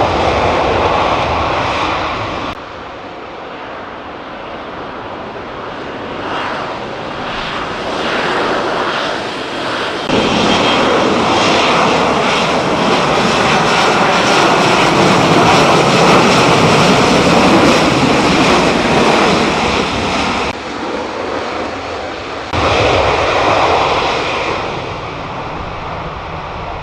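Jet noise from a Lockheed Martin F-35B fighter's single F135 turbofan engine: a loud, steady roar that builds to its strongest in the middle, with several abrupt jumps up and down in level.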